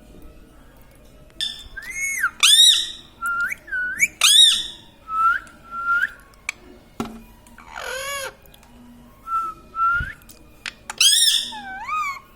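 Pet ringneck parrot making a string of about a dozen shrill whistled calls and squawks, short notes that swoop up and down in pitch with brief pauses between them.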